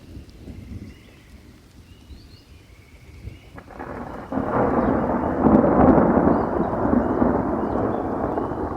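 Thunderstorm with rain: a low rumble for the first few seconds, then about three and a half seconds in a crack of thunder and a loud rolling peal that swells and slowly fades. Faint high chirps sound over the rumble.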